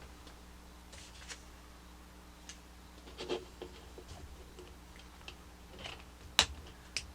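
Small plastic toy parts being handled on a table: scattered light clicks and rustles, with a sharper, louder click about six and a half seconds in and another just after it.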